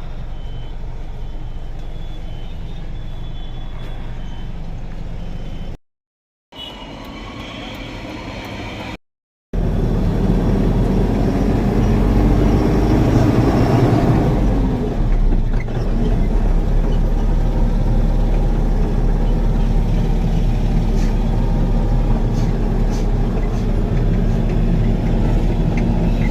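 Truck engine running steadily as the truck drives, heard from inside the cab, broken by two short cuts. After the second cut, about nine seconds in, it is louder, and the engine revs up and eases off a few seconds later.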